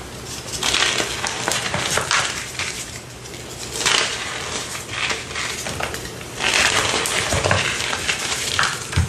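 Close-miked crunching and crushing of something brittle, in repeated bursts of crackly crunches with a brief lull about three seconds in.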